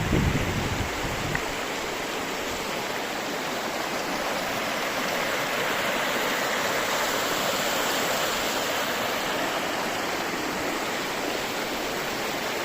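Mountain river flowing, a steady rushing of water. A gust of wind buffets the microphone in the first second, then fades out.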